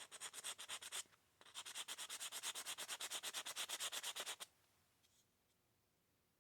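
Sanding sponge rubbed quickly back and forth over hardened JB steel putty on a small plastic slot car body, about ten short scratchy strokes a second. A run of about a second, a brief pause, then about three seconds more before it stops.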